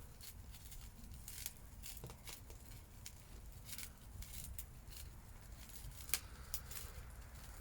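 Fire crackling in a metal burn drum: faint, irregular snaps and pops, one sharper snap about six seconds in, over a low steady rumble.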